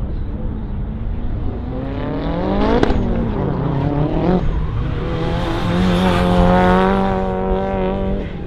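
Autocross car's engine revving hard through a cone course. The pitch climbs to a peak about three seconds in and drops away, then holds high and steady for a few seconds before easing off near the end, over a constant low rumble.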